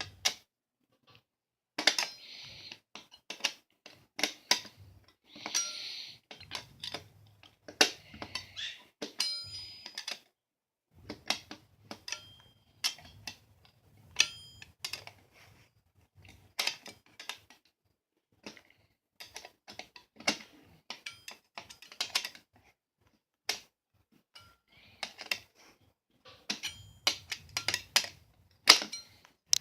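A metal butter knife, used as a screwdriver, clicking and scraping against a stubborn screw in a box fan: irregular sharp clicks with a few short scraping rubs.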